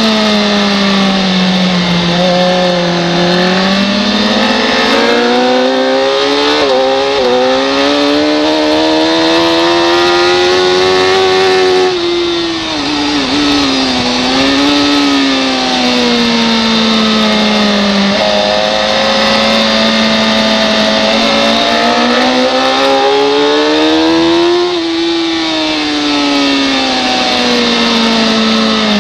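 Superbike racing motorcycle engine at high revs under hard riding, its note climbing steadily, dropping sharply about twelve seconds in, climbing again and falling near the end, over a steady rush of wind.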